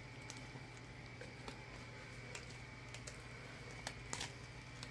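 Faint scattered clicks and light handling noises from a sheet of stickers and paper being handled, a little busier near the end, over a steady low hum.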